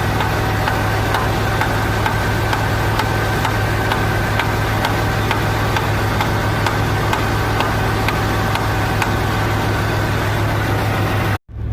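1966 Ford Galaxie's V8 idling steadily just after a cold start, with a light regular tick.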